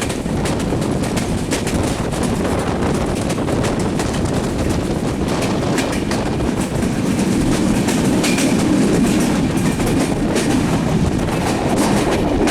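Bangladesh Railway's Padma Express passenger train running at speed, its coach wheels clattering steadily over the rail joints, with the sound of the running train swelling a little past the middle.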